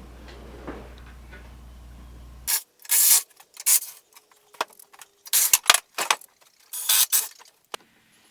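A steady low hum, then it cuts off suddenly and about eight short, sharp bursts of clatter and rattle follow, roughly one every half second to a second, with dead silence between them.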